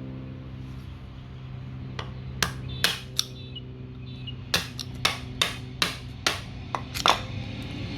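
Hammer blows on a brass water meter to knock its parts out: a few single strikes, then a quicker run of about nine, roughly two to three a second. Under them runs a steady low rumble from a passing train, growing louder near the end.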